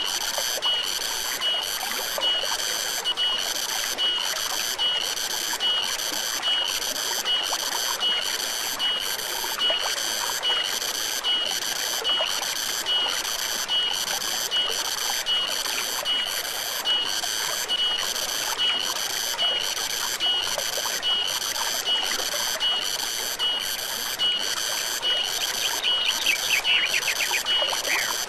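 Insects chirping in an even, high-pitched rhythm of about one and a half pulses a second over a steady flowing stream. A short burst of quicker calls comes near the end.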